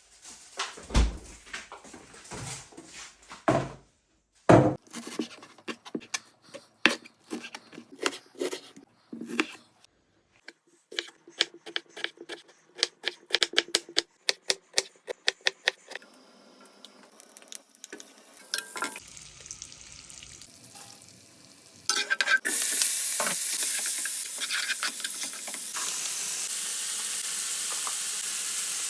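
Kitchen utensils repeatedly knocking and clinking against dishes and a pan, then about two-thirds of the way in a loud, steady sizzle starts as food goes into hot oil and fries.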